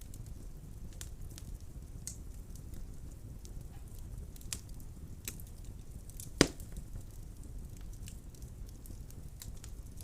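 Wood fire burning in a fireplace: a steady low rumble with scattered crackles, and one loud pop about six and a half seconds in.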